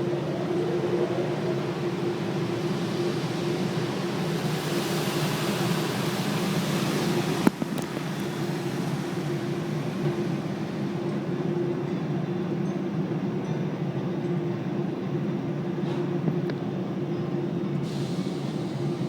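Automatic car wash machinery running with a steady drone and a constant hum. A louder hiss comes in from about four to eight seconds in, and there is a single sharp click about seven and a half seconds in.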